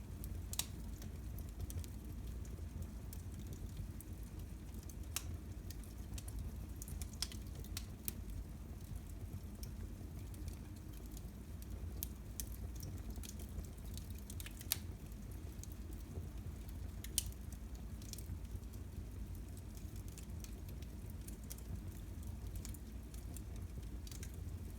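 Wood fire burning in a fireplace: a low steady rumble with scattered, irregular sharp crackles and pops.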